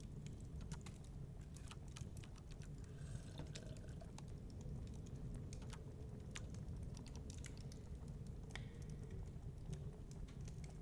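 Wood fire crackling in a fireplace, with irregular sharp snaps and pops over a low, steady rumble.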